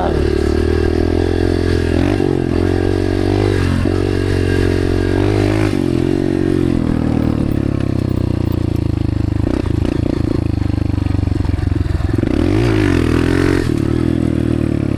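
Dirt bike engine running while being ridden, its pitch rising and falling repeatedly as the throttle is worked. It turns rough and choppy for a stretch about ten seconds in.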